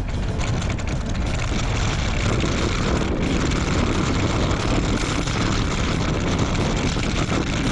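Strong wind buffeting the microphone of a camera on a moving bicycle, a steady rumbling rush heaviest in the low end, as the rider pushes into a gusty headwind.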